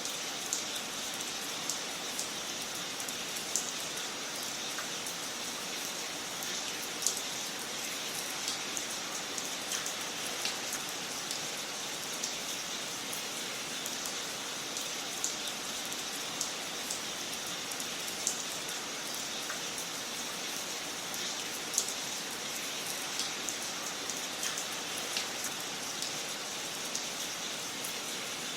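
Wood fire crackling in a fireplace: a steady hiss with sharp, irregular pops and snaps every second or two.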